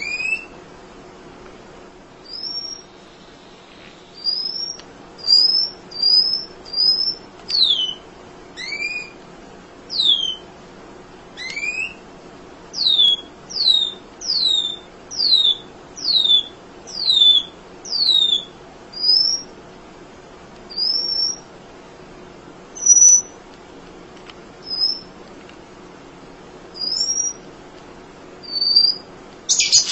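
Munia (emprit) calling: a string of thin, high whistled notes about one a second, most sliding sharply downward, with some shorter rising notes between, ending in a quick burst of chattering notes.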